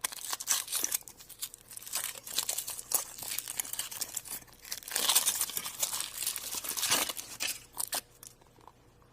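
Crinkling and tearing of the wrapper on a chocolate surprise egg being unwrapped by hand: a dense run of crackles that thins out near the end.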